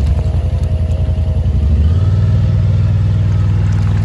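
Yamaha Wolverine side-by-side's engine running as it drives, its note stepping up in pitch about two seconds in.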